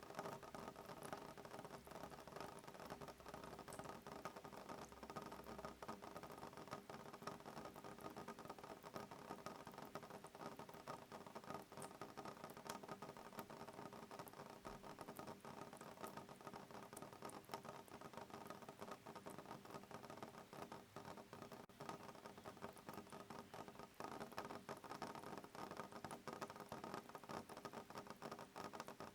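Soft, steady rain pattering on a window: a dense stream of light drop taps at an even, faint level.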